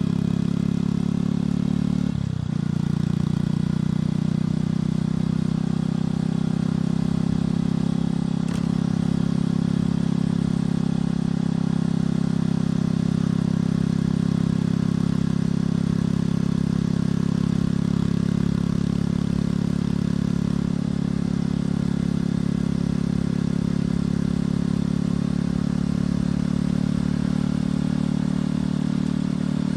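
Motorcycle engine and exhaust running under way at a fairly steady pitch, with a brief dip in the engine note about two seconds in.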